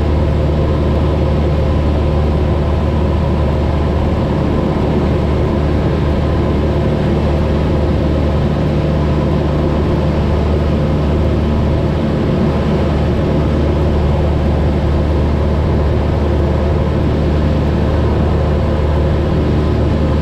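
Cessna 172's engine and propeller droning steadily in cruise, heard from inside the cabin: an even low hum with no change in pitch or level.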